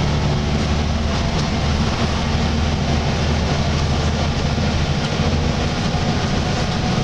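Volvo B10BLE single-deck bus running steadily under way, its six-cylinder diesel engine giving a steady low drone with a groaning noise from the bus.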